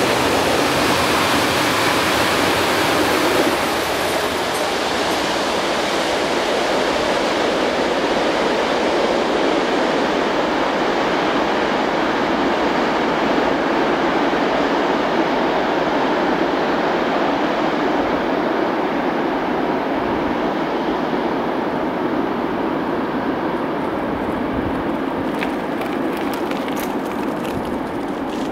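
Freight train passing at speed, a steady rush of wheel-on-rail and wagon noise. The noise eases a little a few seconds in as the last wagons clear, then its hiss fades slowly as the train draws away.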